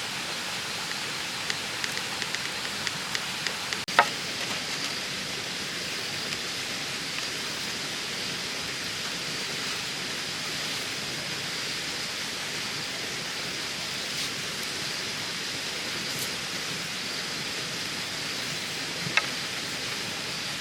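Steady, even hiss with a faint high steady tone running through it, broken by a run of light clicks in the first few seconds, one sharp knock about four seconds in and another near the end.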